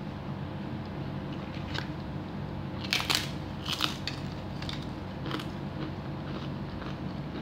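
Close-up eating sounds: a person chewing a mouthful of chicken soup and rice, with a few short sharp clicks, loudest about three seconds in.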